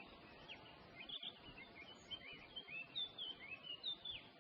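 Faint birdsong: many short chirps and whistles that rise and fall in pitch, coming thicker in the second half, over a faint steady background hiss.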